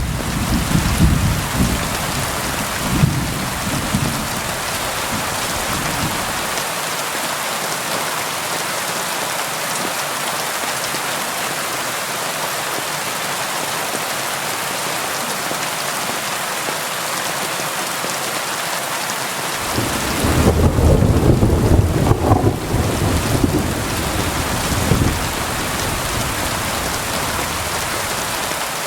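Steady rain falling, with rolling thunder: a low rumble dies away over the first six seconds, and a second roll of thunder comes in about two-thirds of the way through and lasts some five seconds.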